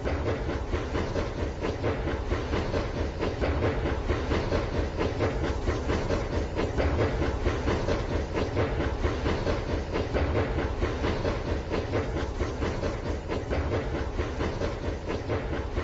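Remote-control toy train running on its track: a steady whirring with a fast, continuous clatter of wheels over the track.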